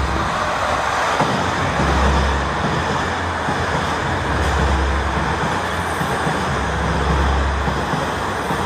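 Electric passenger train running through a station at speed: a steady, loud rushing of wheels on rails and air.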